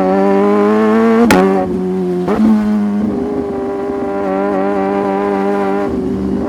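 Sport motorcycle engine running steadily under way, with a sharp crack about a second in and a second brief break in the note about two seconds in.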